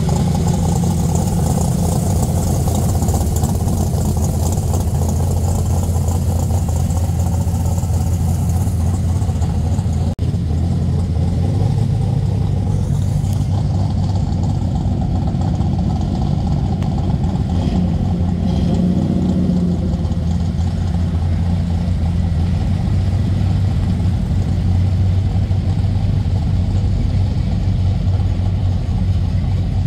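Classic muscle car engines idling and rolling at low speed: a deep, steady rumble, with a brief break about ten seconds in.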